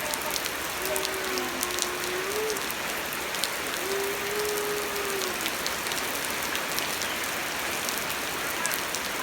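Steady rain falling, with the patter and sharp ticks of drops hitting surfaces. Two long held tones sound faintly behind it, about a second in and again about four seconds in.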